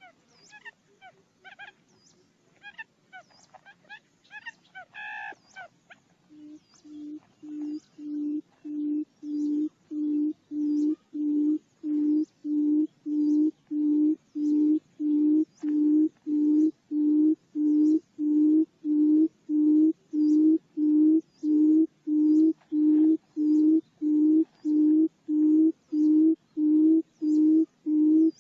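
Buttonquail lure call: a long run of low, evenly spaced hoots, about one and a half a second. The hoots start about six seconds in and grow louder for several seconds before levelling off. Other birds chirp faintly, more plainly before the hooting begins.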